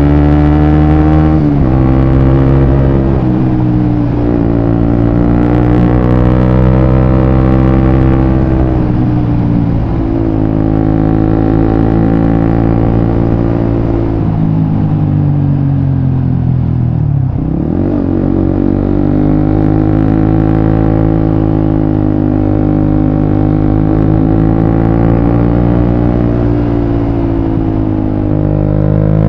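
Suzuki GSX-S150's single-cylinder engine running loud through a Quinze Big Volume aftermarket exhaust while ridden. The engine note rises and falls with throttle and gear changes, dropping low about seventeen seconds in, then climbing again.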